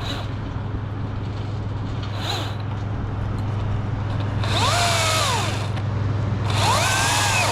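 Battery chainsaw revved twice in the second half, its whine rising and falling in pitch, over a steady low drone from a wood chipper running.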